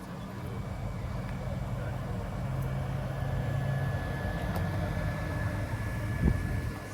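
Car engine running, growing louder over the first few seconds, with a short knock about six seconds in.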